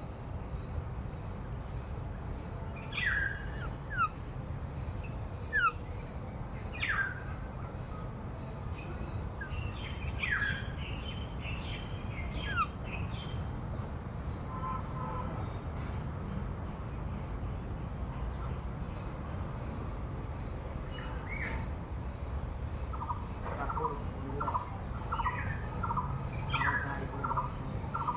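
Wild birds calling: scattered short chirps that sweep downward in pitch, then near the end a quick run of repeated notes, about two a second.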